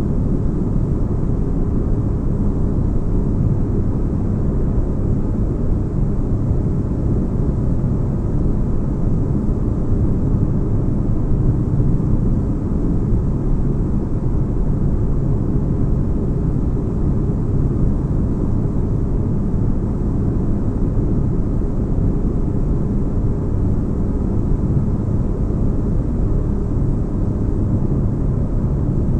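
Sci-fi spaceship interior ambience: a steady deep rumble with little high end, unchanging throughout.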